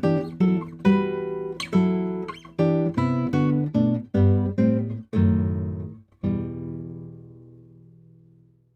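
Background music on acoustic guitar: a run of plucked chords, then a final chord about six seconds in that rings out and fades away.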